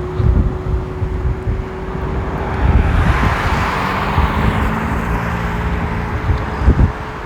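A car passing on a wet road: tyre hiss swells and fades a few seconds in, over wind buffeting the microphone and a steady hum.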